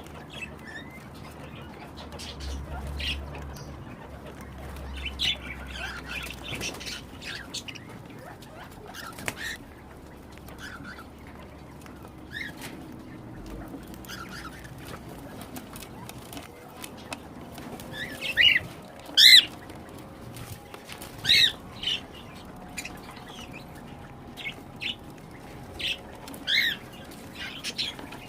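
Cockatiels chirping and calling in short pitched notes, scattered and soft at first, then louder, sharper calls in the second half.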